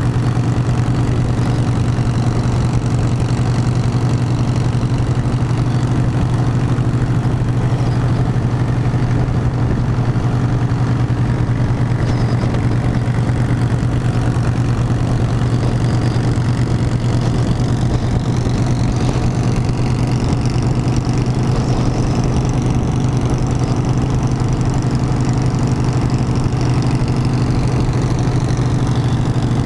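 Harley-Davidson motorcycle engine running steadily with an even, unbroken low drone.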